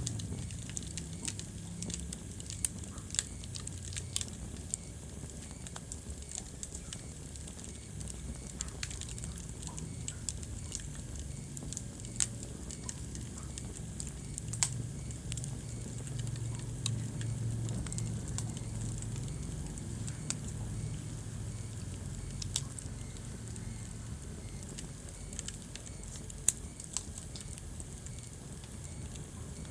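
Wood fire in a fireplace crackling, with a steady stream of small ticks and a handful of louder sharp pops, over a low rumble of burning.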